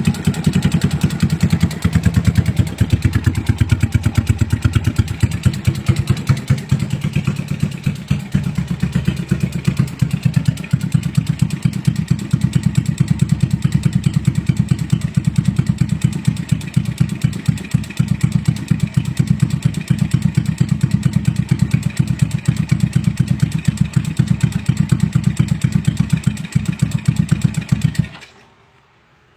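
Racing-tuned Yamaha Jupiter Z single-cylinder four-stroke engine running steadily at idle with a rapid pulsing exhaust beat, then shut off about a second before the end.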